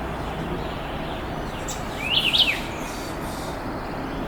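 A songbird calling once, about two seconds in: a short phrase of quick chirps sweeping up and down, over steady background noise.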